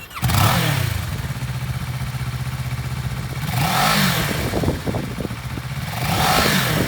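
2015 Kawasaki Ninja 650's parallel-twin engine catching and running, with three throttle blips that raise the revs, one just after it fires, one about four seconds in and one near the end.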